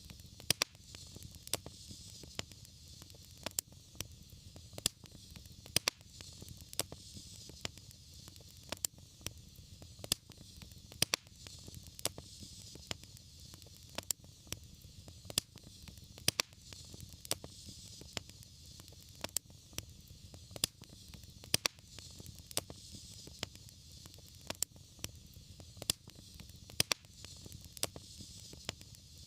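Wood fire crackling, with irregular sharp pops a few times a second over a steady low rumble and soft hiss.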